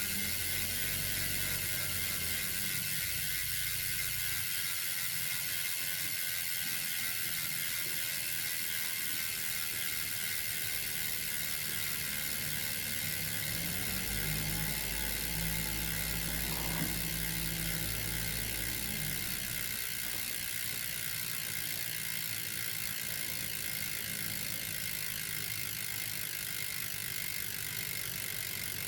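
Campagnolo Scirocco 35 wheel's freehub ratchet clicking rapidly and steadily as the wheel freewheels, its pawls buzzing over the ratchet teeth, easing off slightly toward the end.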